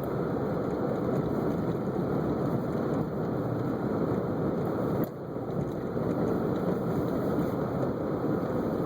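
Steady road noise of a car being driven, heard from inside: engine and tyres on snow-covered streets, with a brief drop in level about five seconds in.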